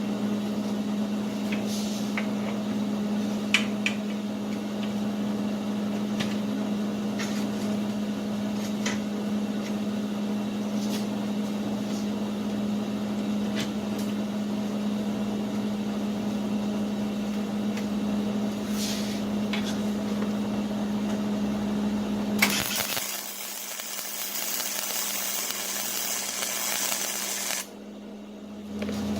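A steady machine hum with a strong low tone, with scattered light clicks. About 22 seconds in, the hum cuts off suddenly and a loud hiss takes over for about five seconds, then stops.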